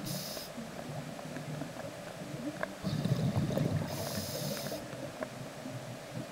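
Scuba diver breathing through a regulator underwater: a short hissing inhale at the start, then another hiss about three seconds in with a low bubbling rumble of exhaled air.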